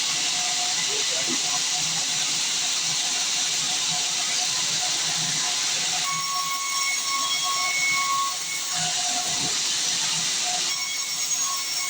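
Band sawmill blade cutting through a log: a steady hissing rasp, with a thin high whine joining in about halfway through and again near the end.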